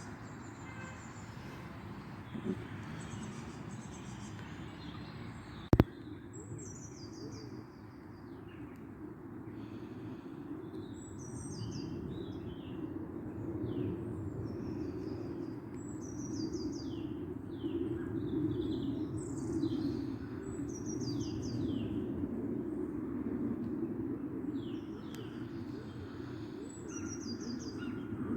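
Small birds chirping and singing in quick repeated phrases over a steady low rushing background noise. A single sharp click about six seconds in.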